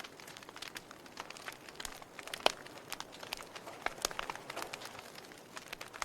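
Campfire crackling, with irregular snaps and pops from the burning wood; the sharpest pop comes about two and a half seconds in.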